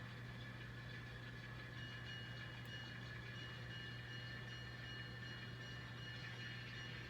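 Model locomotive sound decoder playing a steady Alco diesel engine idle through the N scale engine's tiny speaker, faint, with a thin high whine joining about two seconds in.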